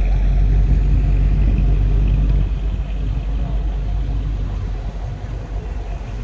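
A classic car's engine running at low speed close by. It is loud at first, drops off about two and a half seconds in, and keeps fading as the car moves away.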